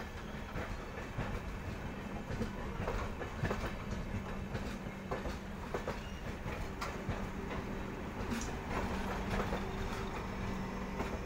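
Coaches of a Bharat Gaurav tourist train passing close by, with the wheels clattering irregularly over rail joints over a steady low hum and rumble.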